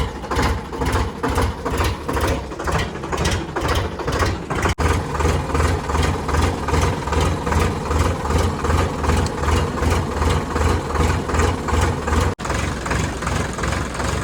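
Tractor engine idling with a steady, regular pulsing beat, broken by two momentary dropouts.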